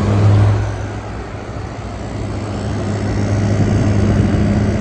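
Air conditioners running in cool mode: a steady compressor hum under the rush of the fan's airflow, with the compressor working hard in the heat.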